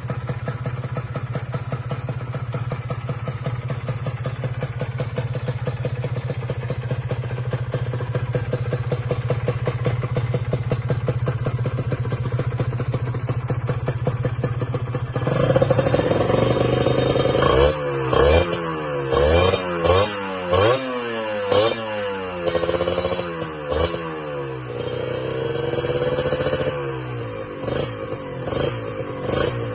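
Kawasaki Ninja SS two-stroke single-cylinder motorcycle engine through a TYGA aftermarket exhaust. It idles steadily for about fifteen seconds, then is revved in a run of quick throttle blips, with one longer rev held near the end.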